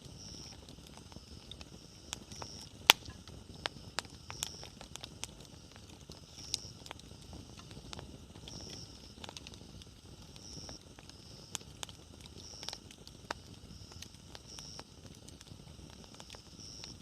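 Wood campfire crackling: scattered sharp pops and snaps over a low steady hiss, the loudest pop about three seconds in. A faint high-pitched note pulses about every two seconds.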